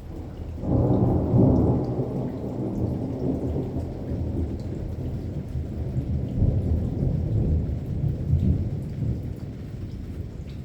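A long peal of thunder over steady rain. It cracks loudest about a second in, then rumbles on for several seconds and slowly fades toward the end, while raindrops patter throughout.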